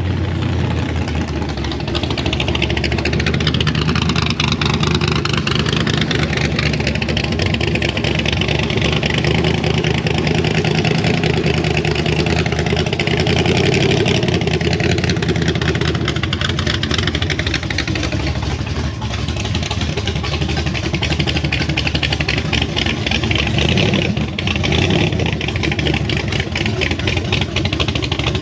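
Pickup truck engine running steadily with some revving.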